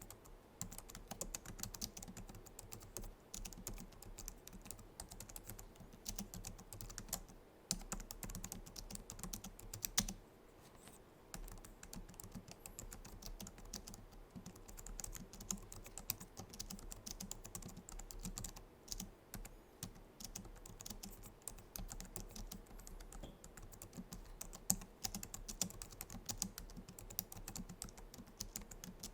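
Continuous fast typing on a Logitech MX Keys, a low-profile scissor-switch keyboard: a steady stream of soft key clicks. The typing pauses briefly twice, once just after seven seconds and again after the one louder keystroke about ten seconds in.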